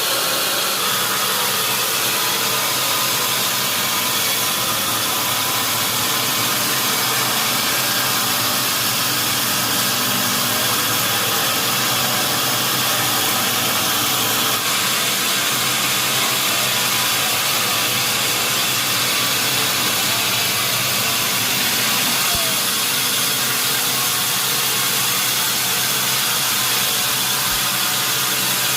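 Sawmill machinery running steadily: a constant loud mechanical drone with an engine-like hum, unchanged throughout.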